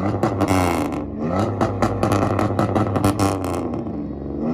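Car engine revving hard against a two-step rev limiter, with rapid exhaust pops and crackles over a rising and falling engine note. The popping stops near the end and the engine settles.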